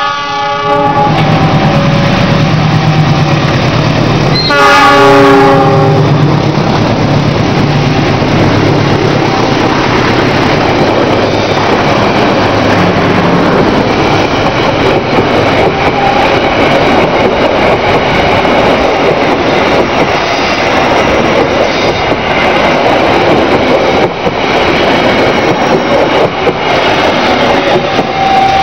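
Diesel locomotive of a passenger train sounding its horn twice as it approaches, the second blast about four seconds in and loudest. Then the train passes close by for the rest of the time, a long, steady rumble of engine and coaches with wheels clattering on the rails.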